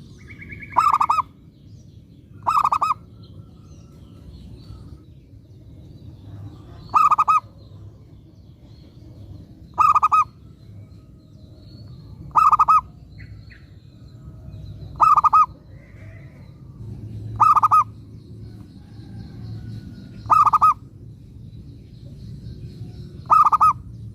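Zebra dove (perkutut) cooing: nine short, loud trilled coos, spaced two to three seconds apart. A low steady rumble and faint chirps of small birds lie underneath.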